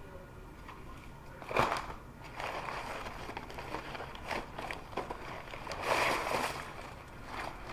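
Takeout food packaging being handled: irregular rustling and crinkling, loudest about a second and a half in and again around six seconds.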